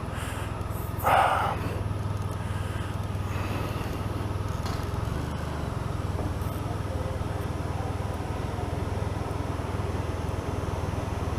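Honda motorcycle engine running at a steady low speed, a constant low hum, with one brief louder sound about a second in.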